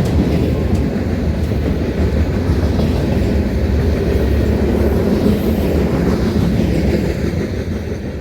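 Train running on the rails: a steady rumble that begins to fade out near the end.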